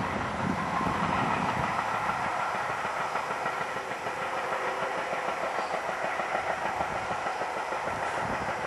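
Steam-hauled passenger train, headed by LNER A1 Pacific 60163 Tornado, running past: a steady noise of wheels on the rails.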